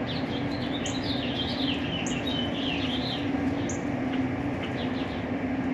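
Small birds chirping outdoors: a quick run of short sliding chirps for about the first three seconds, then scattered single high peeps about once a second. A steady low hum runs underneath.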